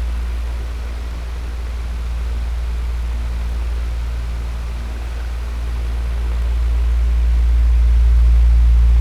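Electric fan running with a low hum and an even rushing of air, its loudness easing slightly a second or so in and around five seconds, then building again near the end.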